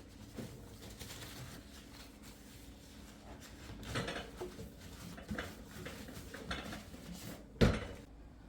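Household objects being handled in a small room: soft knocks and clicks, then one sharp knock near the end.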